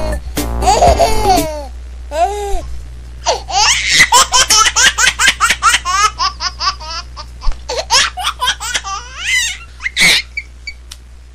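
Laughter, high-pitched and broken into a long run of quick ha-ha pulses in its middle stretch, with a last burst near the end, over a steady low hum.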